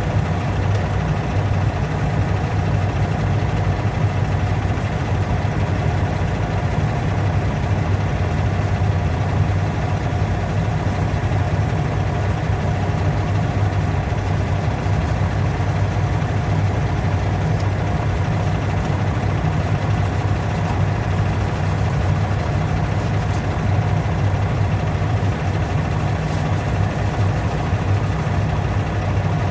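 A steady low motor hum that runs without change, with no strokes or breaks.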